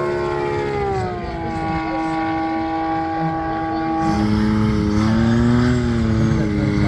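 A STOL plane's propeller engine running, its pitch dropping about a second in as the power comes back. Near the four-second mark the sound changes abruptly to a louder, rougher engine sound with more noise.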